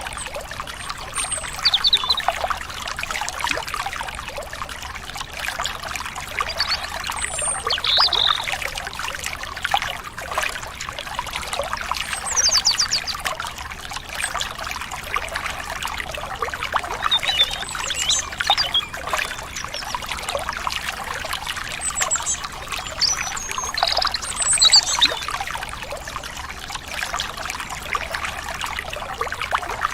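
Stream water trickling steadily, with short high bird chirps and quick trills every few seconds.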